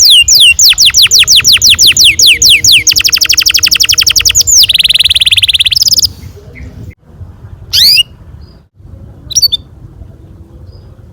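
Domestic canary singing: a run of quick falling whistled notes, about six a second, speeds up into a faster trill and then a buzzy rolling trill that stops about six seconds in. Two brief chirps follow in the quieter second half.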